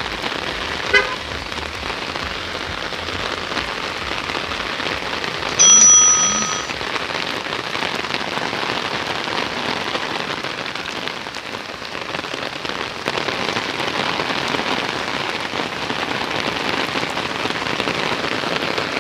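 Steady rain falling on surfaces. About six seconds in there is a short, loud, high tone lasting about a second.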